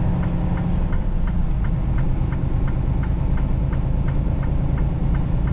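Semi truck's diesel engine droning steadily inside the cab, with the turn-signal flasher ticking evenly about twice a second.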